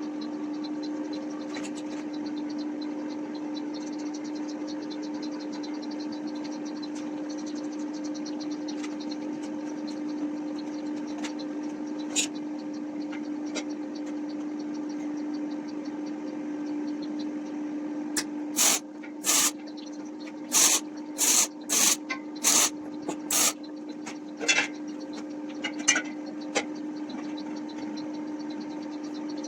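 A steady machine hum, joined about two-thirds of the way through by a run of around a dozen short, sharp hissing blasts.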